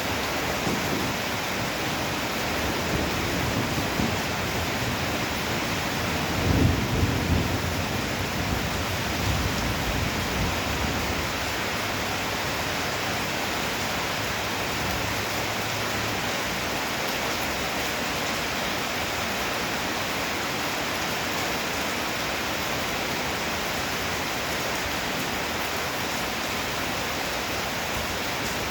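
Heavy rain pouring steadily, with a roll of thunder rumbling through the first third, loudest about seven seconds in and dying away by about eleven seconds.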